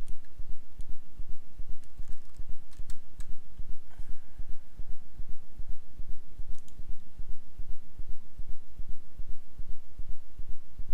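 A low, steady hum throbbing several times a second, with a few scattered computer keyboard and mouse clicks over it.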